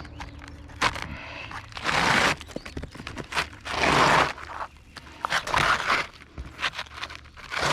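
Asphalt roof shingle being worked by hand, probably cut down to size: repeated scraping and crunching strokes, the longest about 2 and 4 seconds in, among light knocks and clicks.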